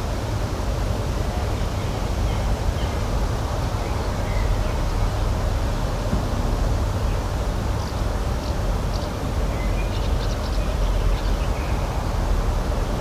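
Natural outdoor ambience: a steady rushing noise with faint, short bird chirps now and then, several in quick succession in the second half.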